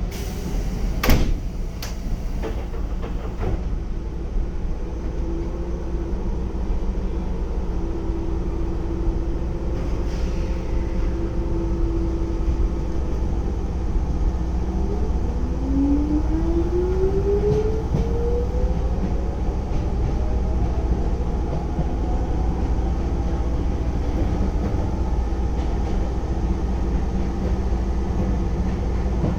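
Keisei 3400-series electric train running from inside the car, with a steady rumble of wheels on rail throughout. A few sharp clicks come about a second in. A steady tone from the field-chopper control follows, then a traction-motor whine rising in pitch as the train gathers speed.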